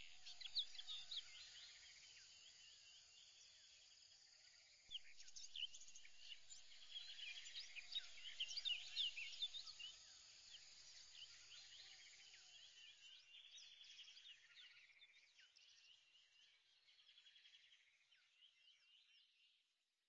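Faint birdsong: many short, high chirps and trills from several birds. They grow louder about five seconds in, then fade away near the end.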